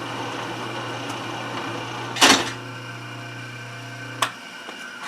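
Atlas metal shaper's electric motor running a test on its newly wired toggle switch, a steady hum. A loud clack comes a little after two seconds in, and a sharp click near four seconds, after which the hum stops.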